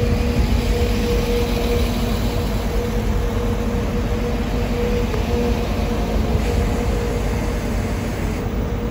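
Transport for Wales Class 197 diesel multiple unit moving slowly along the platform, its engines running with a steady hum over a low rumble.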